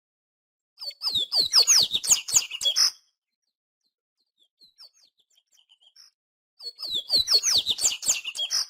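Papa-capim seedeater singing: two loud bursts of rapid song made of quick down-slurred notes, each about two seconds long, with a few faint soft notes in the pause between them.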